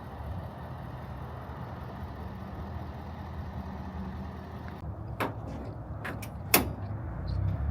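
A motor running steadily with a low hum, with three sharp knocks or clacks in the second half, the last of them the loudest.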